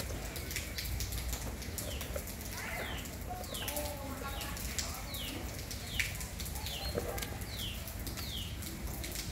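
A small bird chirping over and over: short high notes that fall in pitch, about once or twice a second. Light taps and scuffs come from a baby monkey clambering on a plastic stool.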